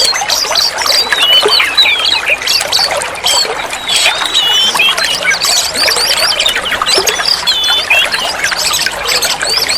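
Oriental magpie-robin (kacer) singing a rapid, varied song of whistles, chirps and short rising and falling notes, with no pauses.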